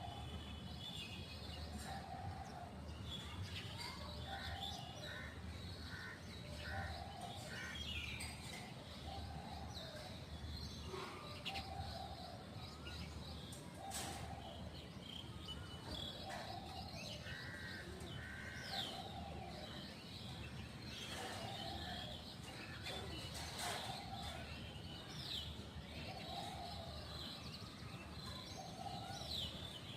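Several birds calling: one bird repeats a short low call about every two seconds, while others chirp and twitter at a higher pitch around it, over a steady low background hum.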